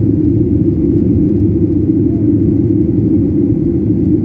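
Steady, loud cabin rumble of a Boeing jet airliner in flight: engine and airflow noise heard from inside the passenger cabin.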